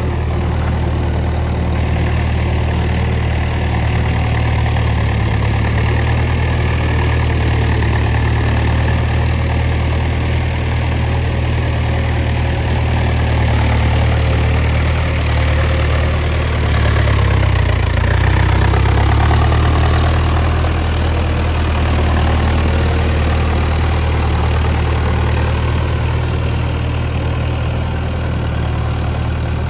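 Mahindra Arjun Novo 605 DI tractor's diesel engine running steadily at about 1500 rpm while pulling a rotavator through deep mud in first gear. The engine note swells a little about two-thirds of the way through, then settles back.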